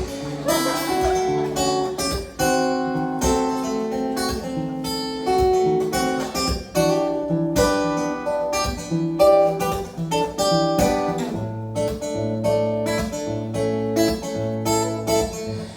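Instrumental break of a live pop song, led by acoustic guitar playing chords in a steady rhythm; low bass notes join about eleven seconds in.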